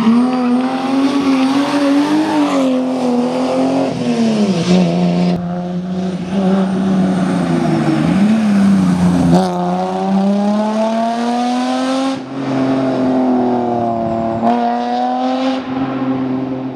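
BMW rally cars' engines and exhausts running hard in a series of short clips, the engine note dipping and rising as they accelerate, with rising revs about nine seconds in and again near the end.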